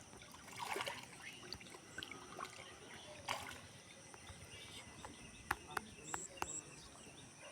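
Faint sloshing and splashing of shallow muddy water, as from hands feeling through it, with a few short sharp clicks near the end.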